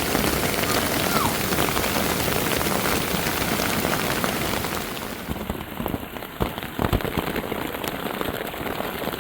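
Steady rain falling, an even hiss. It turns a little quieter about halfway through, with a few sharper drip-like taps.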